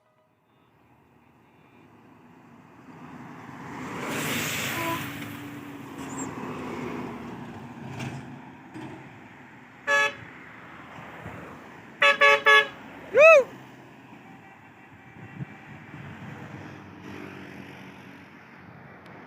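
Road traffic on a climbing highway: a vehicle passes about four seconds in, then a horn sounds once, gives three quick toots, and gives a longer toot whose pitch swoops up and back down.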